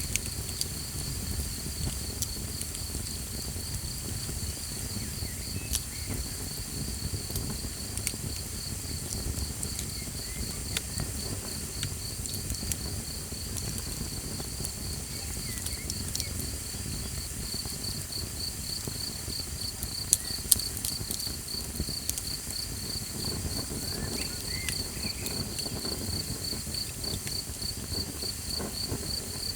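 Insects trilling steadily in a fast, even pulse over the low rumble of a small campfire, with scattered crackles and pops from the fire and two sharper pops about two-thirds of the way through.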